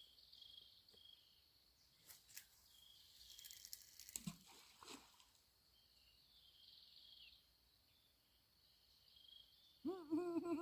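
Faint rural ambience: insects chirping in repeated high pulses over a steady high hum, with a few crackles and rustles about two to five seconds in.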